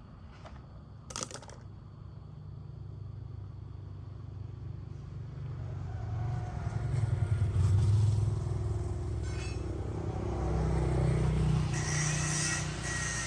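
Low mechanical rumble that builds over several seconds and peaks near the middle, with a hiss joining near the end.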